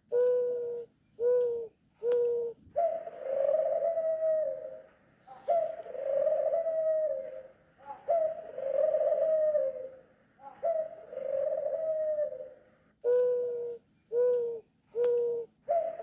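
Doves calling: a series of clear, mid-pitched notes, three short ones at the start and three more near the end, with four longer drawn-out notes in between, each dropping slightly in pitch as it ends.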